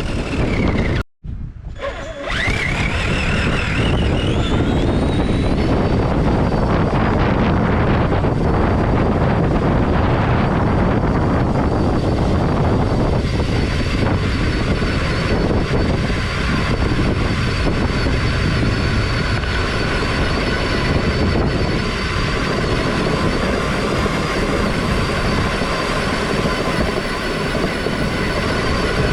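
A radio-controlled car's small nitro engine running with a high, buzzing whine. After a sudden brief gap about a second in, its pitch climbs over a few seconds and then holds steady.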